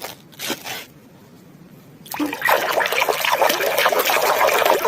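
Water trickling and splashing as a muddy plastic toy animal is washed: a few short splashes, then steadier, louder running water from about two seconds in.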